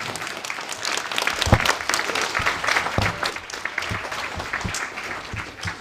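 Audience applauding: a burst of many hands clapping that starts suddenly and thins out near the end.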